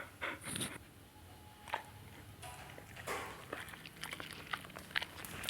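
A dog chewing and biting into food, with irregular crunches and wet clicks.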